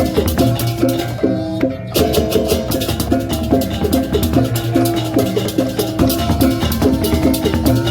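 Balinese gamelan parade music: short pitched notes played in fast repeating patterns over drums and clashing cymbal-like strokes, with a short break in the jangle about a second and a half in.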